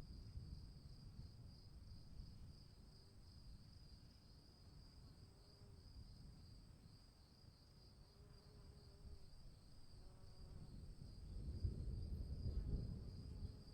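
Crickets chirping in a steady, fast-pulsing high trill, faint, over a low rumble that grows louder about eleven seconds in.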